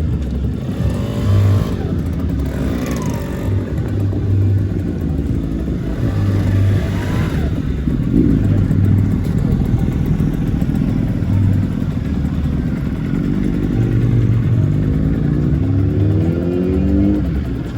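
Lambretta two-stroke scooter engines running and revving as scooters pull away one after another. The engine note rises several times, the longest climb coming near the end.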